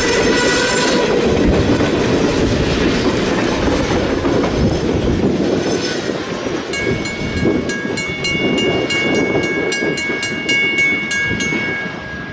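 Train passing close, its wheels clattering over the rails. About halfway through, a steady high chord of several tones sounds for about five seconds while the train noise slowly fades.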